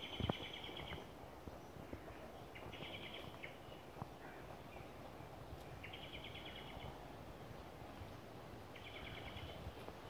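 A songbird singing the same short, fast phrase of rapidly repeated high notes about every three seconds, four times, over a low steady outdoor background. A dull thump sounds just after the start.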